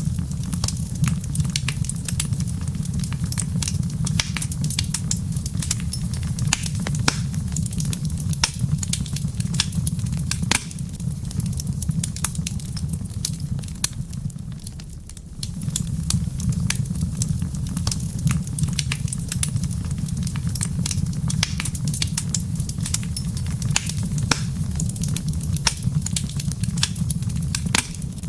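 Wood fire crackling in a fireplace: frequent sharp pops and snaps over a steady low rumble of the burning fire, the rumble dropping away briefly about halfway through.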